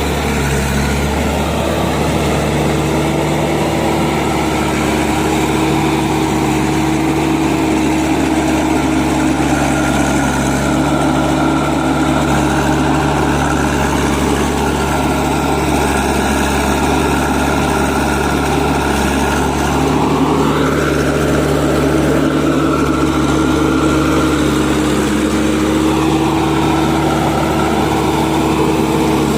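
Heavy diesel engine of earth-moving machinery running steadily; about twenty seconds in its pitch rises and falls back as it revs up briefly, and it dips again a few seconds later.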